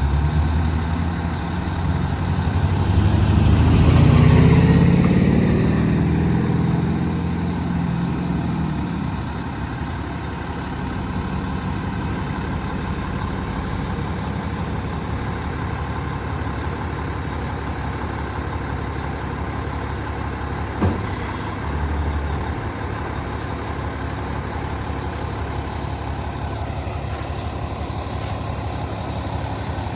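Cummins 8.9 diesel engine of a Kenworth T370 truck idling, speeding up a couple of seconds in and easing back to a steady idle by about nine seconds. A single sharp click about 21 seconds in.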